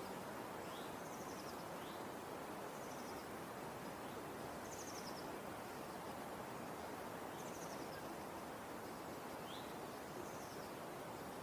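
Outdoor nature ambience: a steady even hiss with a small bird giving short, high chirps every second or two, some sliding down and some rising.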